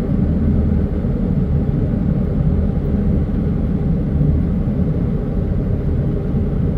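Van engine running with a steady low rumble, heard from inside the cabin.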